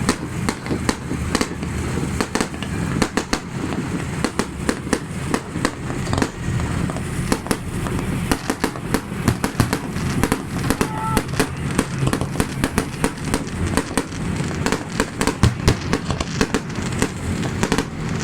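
Fireworks going off in a dense, irregular run of sharp pops and bangs, several a second, over a steady low rumble.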